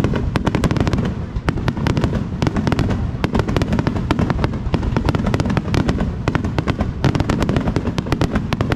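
Fireworks display finale: a dense, rapid barrage of bangs and crackles, many shells bursting every second over a continuous low rumble.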